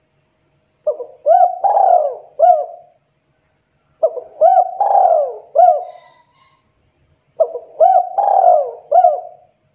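Spotted dove (tekukur) cooing: three phrases of several coos each, a second or so of quiet between them.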